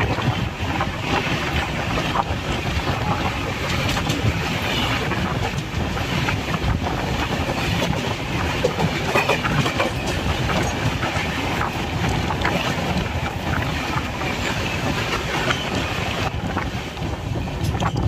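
Indian Railways express passenger train passing: a steady rumble of coaches rolling by, with repeated clicks and clacks of wheels over rail joints.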